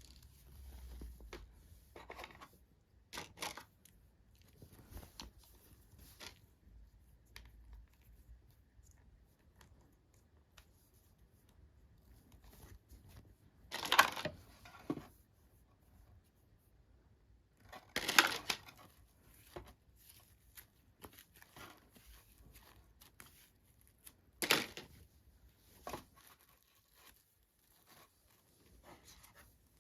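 Toy packaging being handled and torn open, with scattered small rustles and crinkles and three louder tearing sounds spread through the middle.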